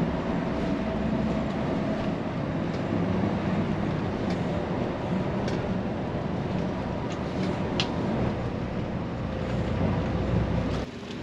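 Steady engine and road rumble inside a moving vehicle, with a few faint rattles; it cuts off just before the end.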